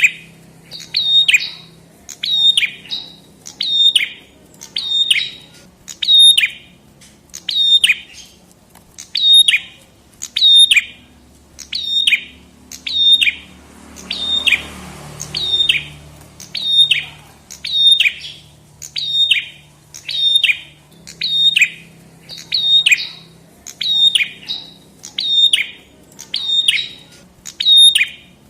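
Prenjak kepala merah songbird calling over and over, one sharp, quickly falling note about once a second.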